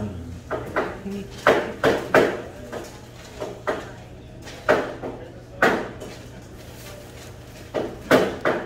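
A person chewing a bite of a corn-tortilla taco with chicken, rice and beans close to the microphone: irregular short sharp mouth and chewing sounds, several in quick succession in places, over a low steady hum.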